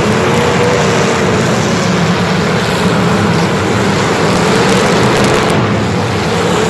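A motor running steadily under a loud noisy rush, its whining pitch wavering and rising near the end.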